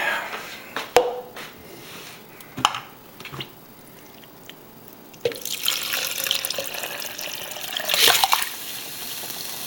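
A few sharp knocks and clinks of cookware, then about five seconds in a steady watery hiss of liquid starts suddenly and swells briefly near the end.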